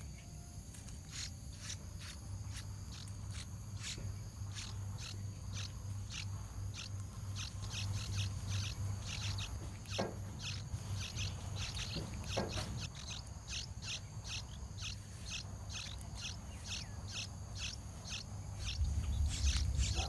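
A small songbird calling in a long run of short, sharp high chips, about two to three a second and coming faster in the second half, over a steady low hum: alarm calls of a parent bird at its nest of nestlings with a snake close by.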